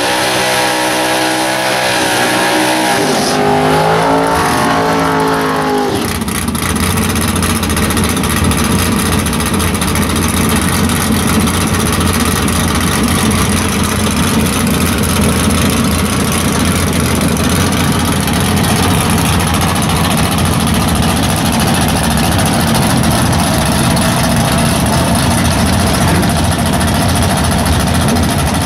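A V8 drag car's engine revving, its pitch climbing, dropping about three and a half seconds in and climbing again. About six seconds in the sound changes abruptly to a small-block Mopar V8 in a Plymouth Duster drag car running loud and steady close by.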